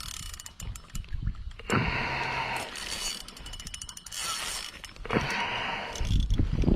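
Fishing reel clicking and whirring in two bursts of about a second each, about two seconds in and again about five seconds in, as a strong hooked fish is played. A low rumble comes near the end.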